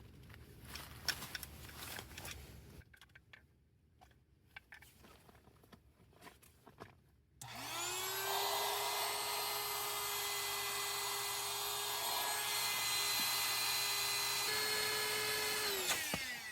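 A small electric motor spins up with a quick rise in pitch about halfway through, runs steadily for about eight seconds, then winds down and stops near the end. Light clicks and handling noises come before it.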